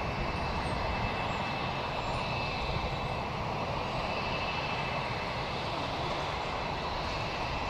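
A private plane's engines running steadily on take-off: an even rush of engine noise with a faint high whine over it.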